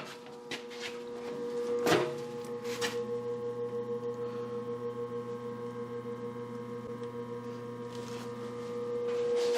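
Electric motor on an old Brown & Sharpe #1 cylindrical grinder running with a steady hum that pulses about three times a second. There are a few clicks early, with a sharp knock about two seconds in.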